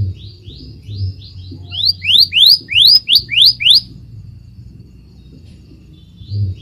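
Scarlet minivet singing: a run of about a dozen short, upward-sliding whistled notes, about three a second. The notes start soft and grow louder and wider in the second half. After a pause, the next phrase begins near the end.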